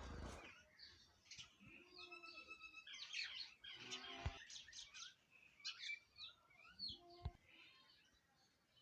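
Sparrows chirping in quick, irregular short calls, busiest in the middle. There are two soft knocks, about four and seven seconds in.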